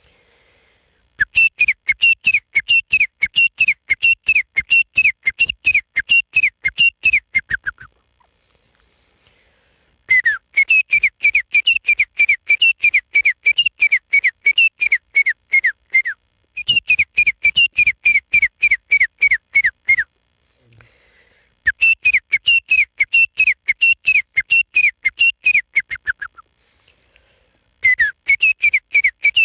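A man whistling an imitation of a pair of francolins (titar) calling: rapid runs of short, high, falling whistled notes, in five bursts with brief pauses between.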